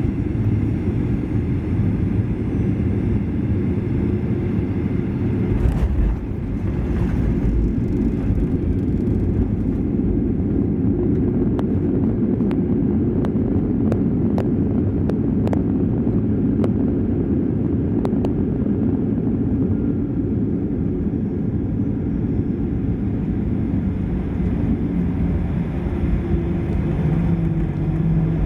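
Steady low rumble in the cabin of a Boeing 737-800 arriving at its destination, with one sudden thump about six seconds in and a few faint light clicks afterwards.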